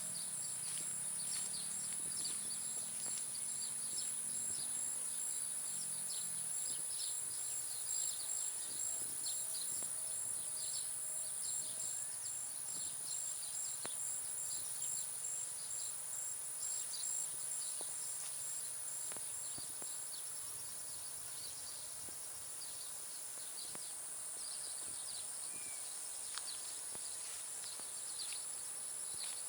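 Countryside soundscape: a steady high-pitched insect drone, with a fast pulsing insect trill over it that stops about twenty seconds in, and many short bird chirps throughout. A low, drawn-out animal call fades out in the first several seconds.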